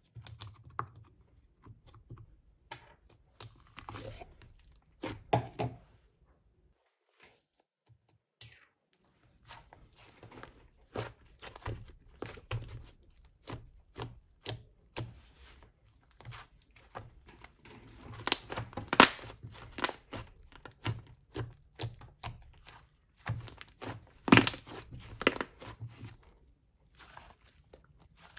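Hands squishing, pressing and poking a fluffy soufflé-textured slime, giving irregular sticky clicks, crackles and pops. There is a pause of a few seconds near the start, and the loudest crackling bursts come past the middle.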